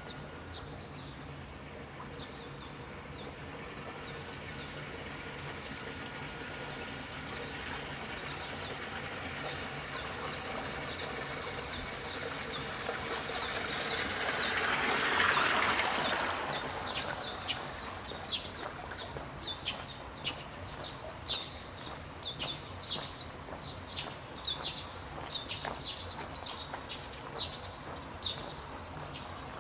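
Small birds chirping in quick, short calls, thickest in the second half. Under them is a steady rushing noise that swells to a peak about halfway through and then drops away.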